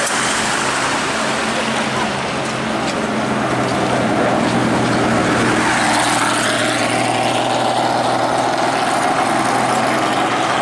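Lancia Rally 037's supercharged four-cylinder engine running steadily.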